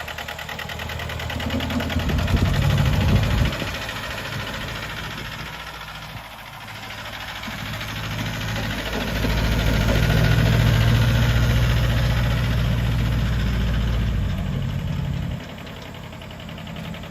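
John Deere 650 tractor's three-cylinder Yanmar diesel engine running with a diesel clatter, getting louder briefly about two seconds in and again for several seconds from about eight seconds in.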